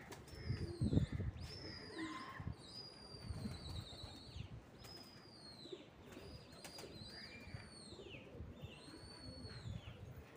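Birds calling with many high, clear whistled notes, each held briefly and dropping at the end, some overlapping. A few dull low thumps sound in the first two seconds or so.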